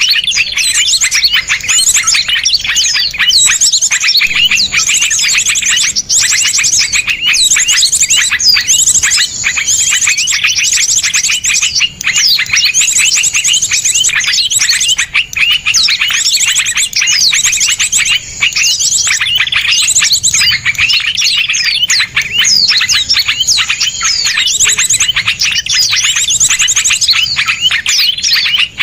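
Small songbirds calling in a dense, unbroken chorus of rapid, harsh chirps and fast trills, the notes packed closely together.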